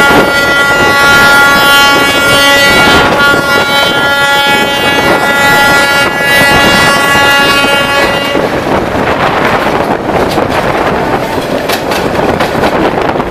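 Train horn sounding one long blast with a brief dip about three seconds in, cutting off about eight seconds in. The rumble and rattle of the moving train carries on after it.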